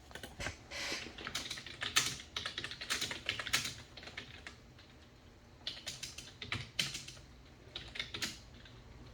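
Typing on a computer keyboard in quick runs of keystrokes: one run over the first four seconds or so, a short pause, then another from about six to eight and a half seconds in.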